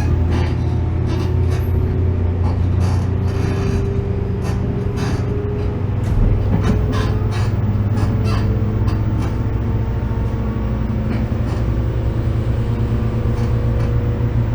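Interior running sound of a 415 series 1500-subseries electric multiple unit: a steady low rumble with the traction motors' whine slowly rising in pitch as the train gathers speed. Frequent clicks from the wheels passing over rail joints and points run through it.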